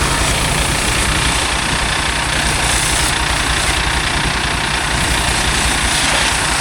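An engine idling steadily, with a continuous spraying hiss of water over it.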